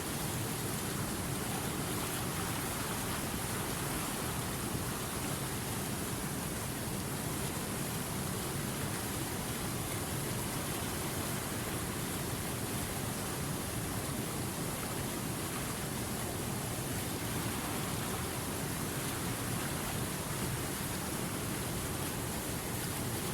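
River water rushing steadily over rapids, an even unbroken noise.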